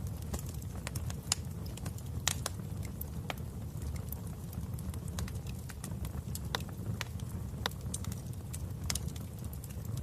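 Wood fire in a fireplace burning with a steady low rumble and frequent irregular sharp crackles and pops.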